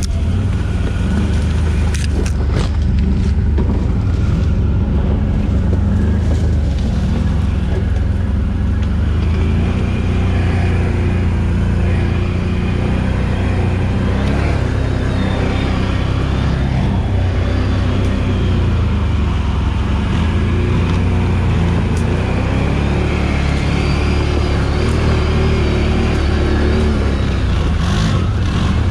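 Can-Am Outlander 1000 XMR ATV's Rotax V-twin engine running under way, its pitch rising and falling as the throttle is worked, over a heavy low rumble. A few knocks come about two to three seconds in.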